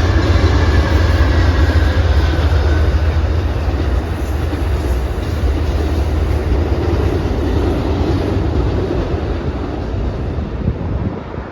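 Amtrak California Zephyr passenger train going by close up: a loud, steady, deep rumble of the train and its wheels on the rails, easing off near the end.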